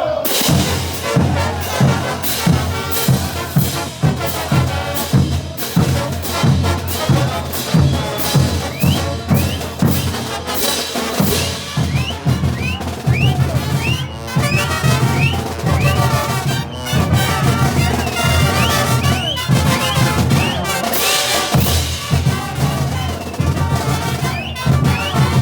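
Bolivian brass band playing full out, brass over a steady beat of bass drum and percussion. The band strikes up sharply right at the start.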